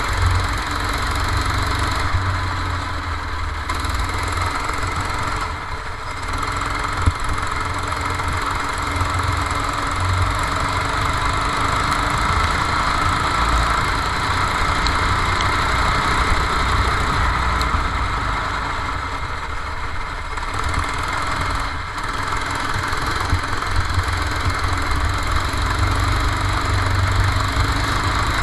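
Go-kart engine running steadily, with a low, fluttering rumble of wind buffeting the onboard microphone.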